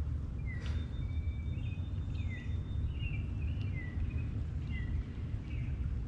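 Wild birds calling, a run of short falling chirps every half-second to second, with a thin steady high note held for about two seconds near the start. Under them runs a steady low rumble.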